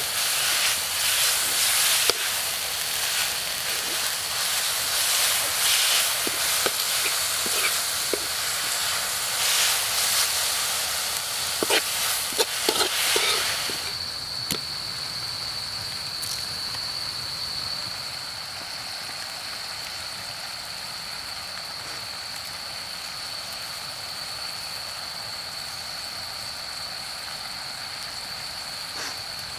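Water lily stems stir-frying in a wok: loud sizzling hiss with the metal ladle scraping and clicking against the pan. About fourteen seconds in, the sizzle drops to a fainter hiss and a steady high whine takes over.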